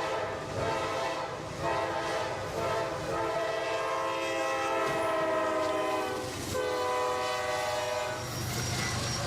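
Train horn sounding in long, loud blasts separated by short breaks.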